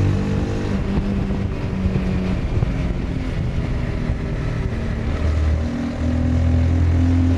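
Honda CBR 250R's single-cylinder engine running under way, its note easing off through the middle, then pulling harder and louder again about six seconds in.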